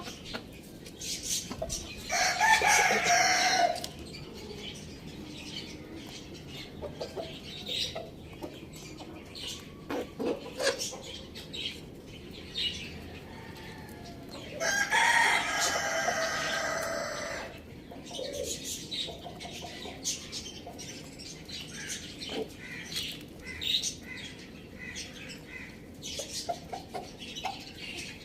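A rooster crowing twice, each crow lasting about two to three seconds, one a couple of seconds in and one about halfway through. Between the crows, chickens cluck and give short calls.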